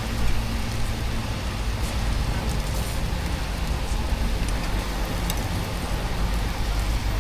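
Steady rushing background noise over a low hum, with a few faint clicks.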